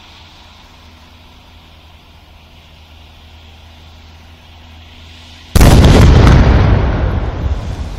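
Homemade 100 g flash powder firecracker detonating: one sudden, very loud blast about five and a half seconds in, followed by a rumble that dies away over the next couple of seconds. Before it, only a faint low hum.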